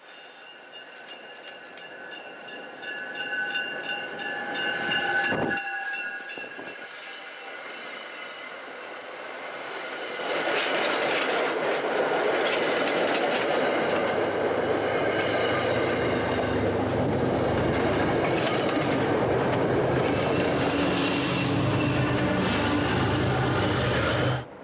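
MBTA push-pull diesel commuter train approaching and passing close by, its coaches' wheels rolling and clicking over the rail joints, with the pushing diesel locomotive's low engine rumble passing near the end. Before the train reaches the platform, a steady high-pitched warning signal sounds for several seconds. The sound cuts off abruptly at the end.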